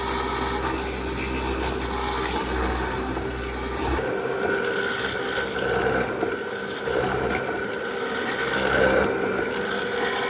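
A tool scraping and rubbing on wood, over a steady low hum that stops about four seconds in.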